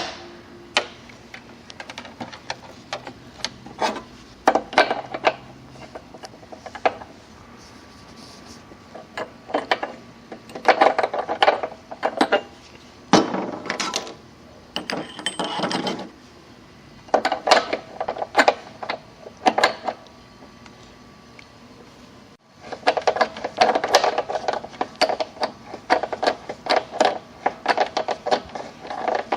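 Hand tools clicking, clinking and scraping against metal parts in irregular bursts, with short pauses between.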